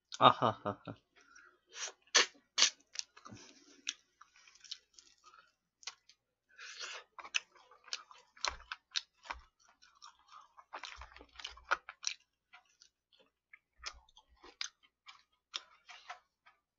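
Close-miked chewing of fried chicken: irregular crunches and wet mouth clicks and smacks between bites, with no steady rhythm. The loudest crunches come about two seconds in.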